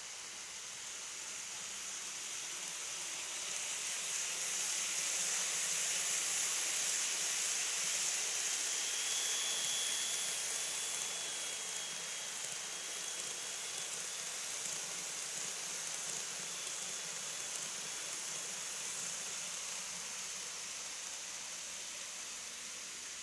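KATO N-gauge model train running along its track: a steady hiss of wheels and motor that swells as it comes close, about six to ten seconds in, then fades, with a faint high motor whine near the loudest point.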